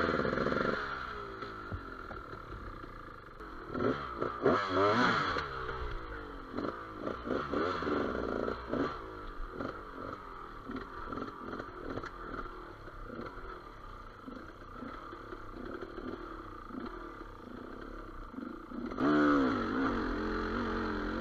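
Enduro motorcycle engine running through the forest, its revs rising and falling, with two louder bursts of throttle: one about four seconds in and one near the end.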